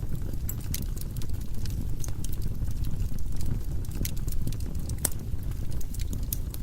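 Firewood burning in a fireplace: a steady low rumble of the flames with irregular sharp crackles and pops from the logs.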